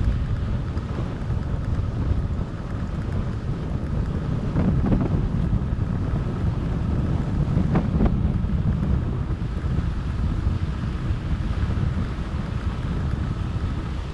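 Wind buffeting the microphone over the low rumble of a fat bike rolling on 4.4-inch Schwalbe Jumbo Jim tyres, with two brief knocks about five and eight seconds in.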